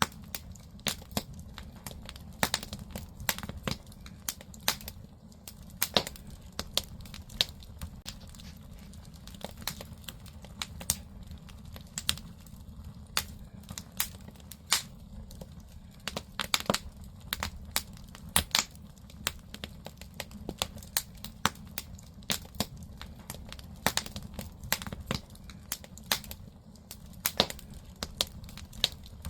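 Firewood burning in a Korean agungi (traditional clay firebox): irregular sharp crackles and pops, several a second, over a steady low rumble.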